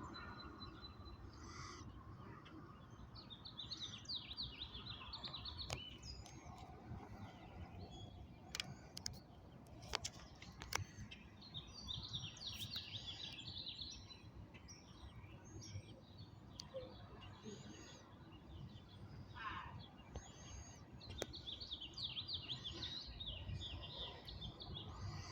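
A small bird sings three times, each a rapid run of high chattering notes lasting two or three seconds, over a steady low rumble of background noise with a few sharp clicks.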